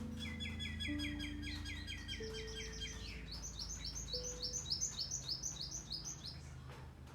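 A songbird singing two fast trills of repeated slurred notes, about five notes a second; the first trill is lower and lasts about three seconds, and the second, higher trill follows straight after. Soft background music notes sound underneath.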